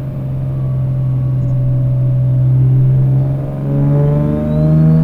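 Single-turbo 2003 Nissan 350Z's VQ35DE V6 running at steady cruising revs, then the revs start climbing about three and a half seconds in as it begins to accelerate. A faint high turbo whistle rises over it near the end.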